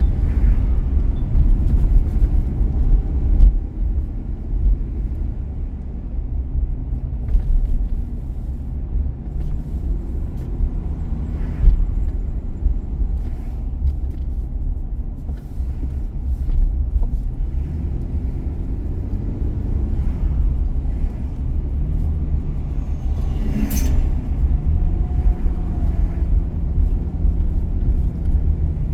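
Car driving: a steady low rumble of road and engine noise, with the engine note shifting now and then. There are a few faint knocks and one sharp click near the end.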